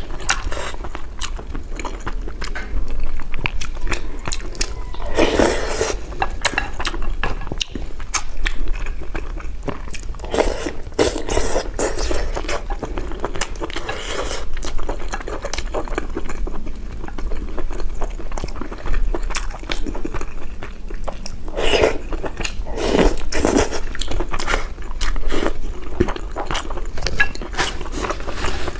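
A person eating close to the microphone, chewing and biting on a mouthful of red-braised pork and rice. Many quick, irregular wet clicks and smacks, with a few louder mouthfuls.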